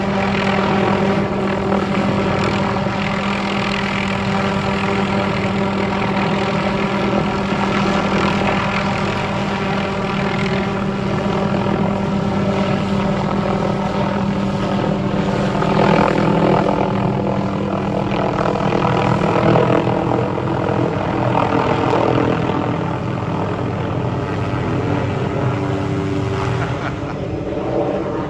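Hughes 500 helicopter running steadily at power, its turbine and rotors making a continuous hum of several held tones. The level dips slightly near the end.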